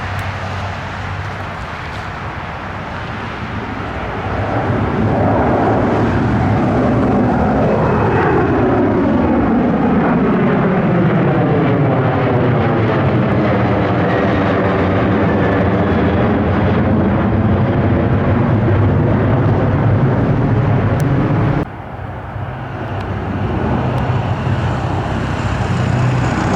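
Airplane passing close by: its engine noise swells about four seconds in and carries a sweeping, phasing whoosh as it goes past. About 21 seconds in it cuts off abruptly to another aircraft sound that builds again.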